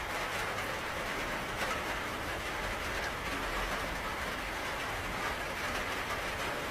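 Steady rain falling, an even hiss with scattered drop taps over a low rumble.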